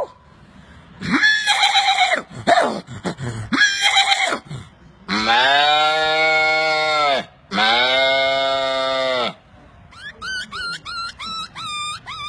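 A man imitating animal calls with his voice: a few short gliding calls, then two long drawn-out livestock-like calls of about two seconds each, then near the end a quick run of high chirping notes, about three a second.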